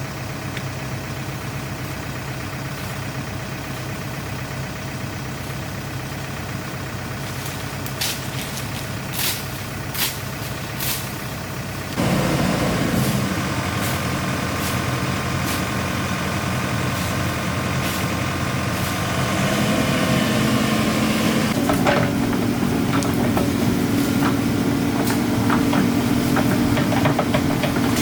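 Excavator's diesel engine running steadily at low speed, with a few short sharp clanks or hisses about 8 to 11 seconds in. About 12 seconds in it suddenly picks up to a louder, higher speed, as when working under load, and climbs a step higher again around 20 seconds.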